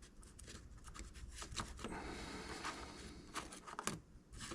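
Faint handling noise from small objects being worked by hand: scattered light clicks and a soft rubbing.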